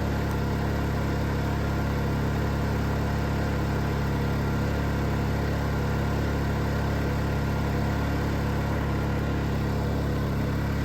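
Predator 2500 inverter generator's small single-cylinder four-stroke engine running steadily at an even speed, not that loud for a generator.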